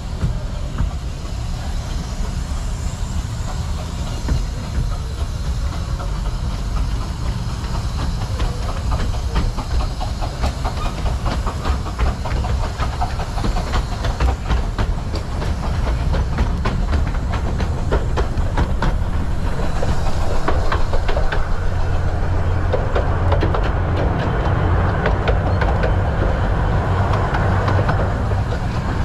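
Romney, Hythe and Dymchurch Railway miniature train running along the track: a steady low rumble with a rapid run of wheel clicks over the rails, growing louder about two-thirds of the way through.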